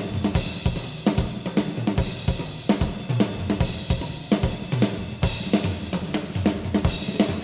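Live jazz-funk band playing, with the drum kit to the fore: steady snare, bass drum and cymbal hits over bass and keyboard lines.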